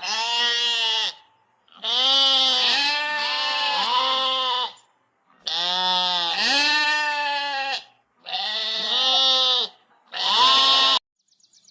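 Goats bleating: a series of quavering, drawn-out bleats in about five bursts, each one to three seconds long, separated by short silent gaps.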